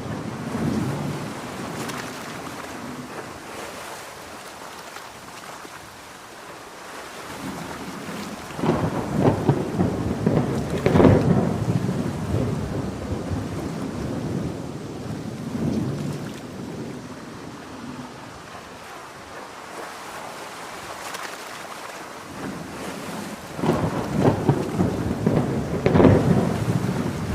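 Seaside storm ambience: steady heavy rain, with two loud rolling rumbles of a few seconds each, one about a third of the way in and one near the end.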